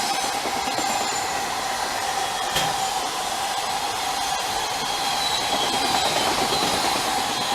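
A train running on the JR Kyoto Line tracks: steady rolling noise with a thin steady tone and faint high wheel squeals, and one sharp tick about two and a half seconds in.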